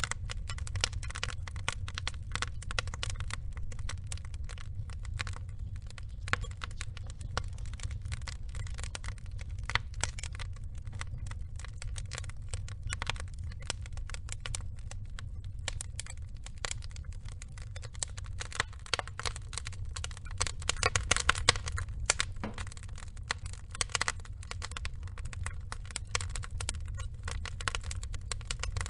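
Wood logs burning in a fire, crackling with many irregular sharp pops over a steady low rumble; the pops come thicker and louder about twenty seconds in.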